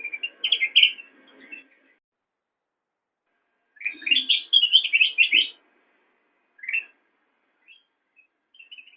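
A kutilang emas (ruby-throated bulbul) singing in short phrases of quick, chirpy notes. One phrase ends about a second in, a second phrase comes at about four to five and a half seconds, and a few single notes follow near the end.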